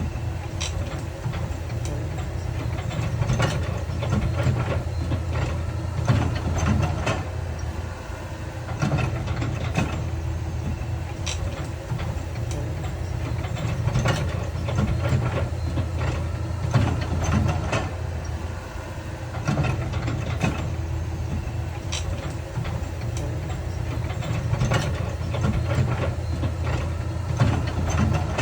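Heavy diesel construction machinery running steadily, with irregular metallic clanks and knocks over the engine.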